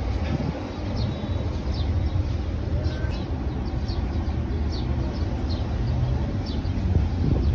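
Small birds chirping in short, falling notes over a steady low rumble.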